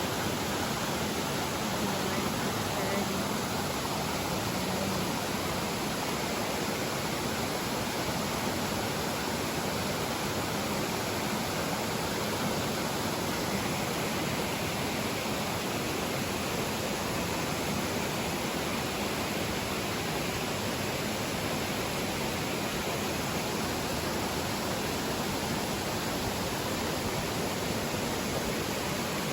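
Steady rushing water from a stream.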